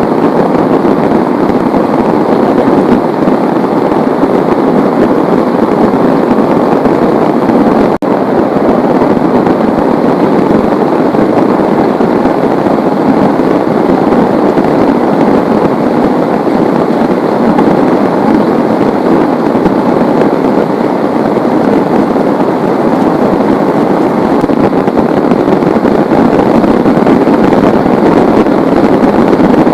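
Heavy rain falling in a loud, steady downpour, with a split-second dip about eight seconds in.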